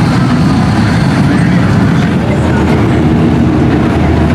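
Off-road truck engine running loud and steady, a dense low rumble without let-up.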